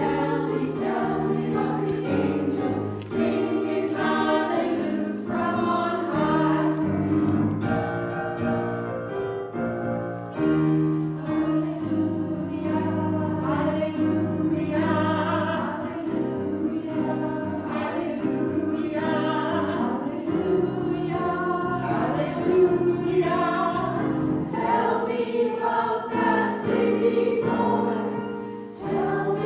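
Women's community choir, in soprano and alto parts, singing a song in harmony with piano accompaniment.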